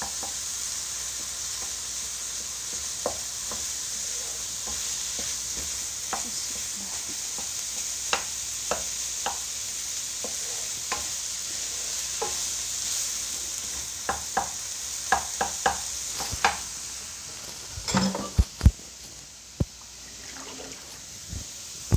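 Minced meat and onions sizzling in ghee in a nonstick wok, stirred with a wooden spatula that scrapes and taps against the pan. The taps come thicker later on, with a few louder knocks near the end, after which the stirring stops and the sizzle quietens.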